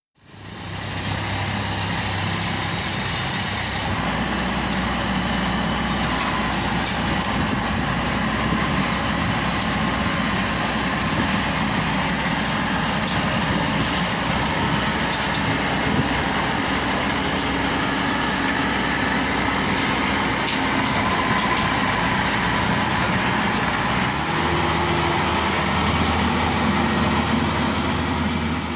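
Engine of a Maxxi Bimo Evo Xtreme combine harvester running steadily, with a few faint knocks. Its note changes about 24 seconds in.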